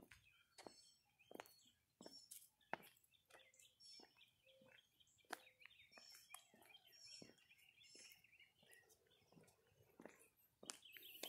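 Faint birds chirping, with scattered soft clicks.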